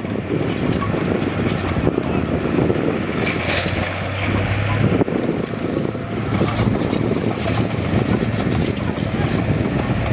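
Heavy diesel earthmoving machinery running steadily under load, with a constant engine hum and rumble. A few short knocks come about a third of the way in and again past the middle.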